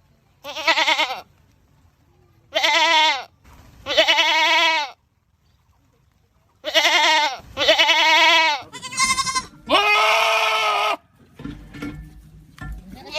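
Goats screaming: a run of about seven loud, quavering bleats, each around a second long, the first few separated by short silences and the later ones coming close together.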